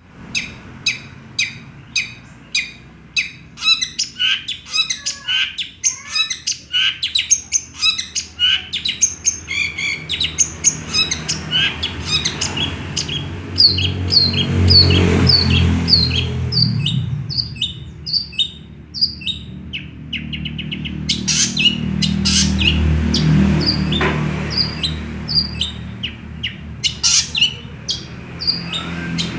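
Long-tailed shrike singing energetically: rapid strings of sharp chirps, clicks and quick falling whistles, filled with mimicked calls of small birds. A low rumble in the background swells twice, near the middle and later on.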